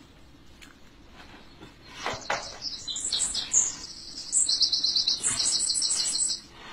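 Small birds chirping in fast, rapidly pulsed high trills that start about three seconds in and stop shortly before the end, preceded by a brief rustle.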